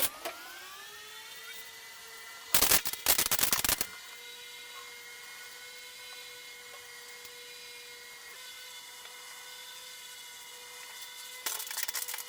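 Small power-tool motor, like a cordless drill, whining as it spins up and then running at a steady pitch, with two spells of loud rattling clatter, one a couple of seconds in and one near the end.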